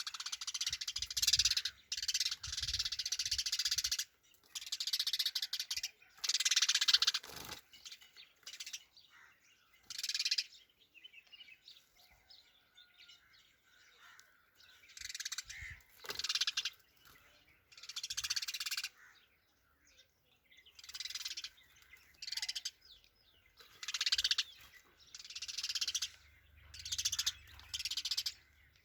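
Sparrow chirping in short, loud bursts every second or two, with brief gaps between them.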